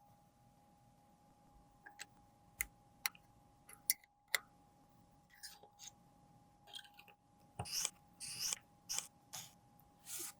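Sharp clicks and taps of makeup containers and tools being handled, then a run of short scratchy scraping sounds from about five seconds in, over a faint steady hum.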